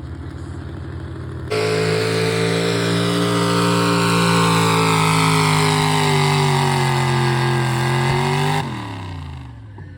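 Pulling truck's engine jumping to full throttle about a second and a half in and held there for about seven seconds, its pitch slowly sagging as the sled's load builds, then let off sharply near the end, dropping back to a lower rumble.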